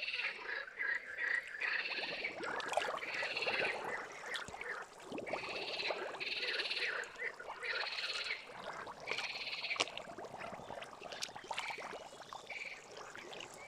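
Frogs calling: a run of short, rapidly pulsed trills, one every second or so, over a faint crackling.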